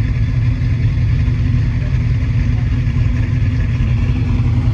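A car engine idling, a low, steady sound that holds level throughout.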